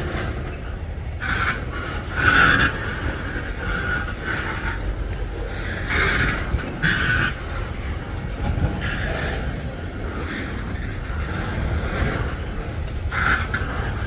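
Freight train cars rolling past with a steady low rumble, and short metallic screeches from the wheels on the rails that come and go every second or two.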